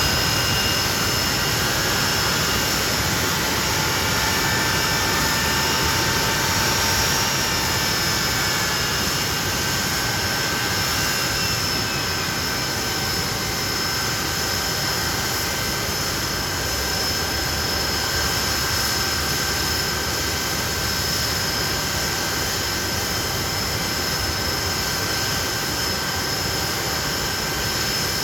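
Hawker Siddeley Nimrod's Rolls-Royce Spey turbofan engines running steadily: a loud, continuous jet rumble with a high, steady whine over it.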